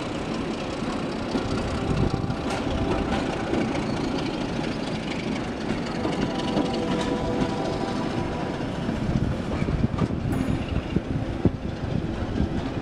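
Heritage railway passenger train's coaches rolling past beneath and pulling away, steady rumble with the wheels clicking over the rail joints; the clicks and knocks come thicker in the last few seconds.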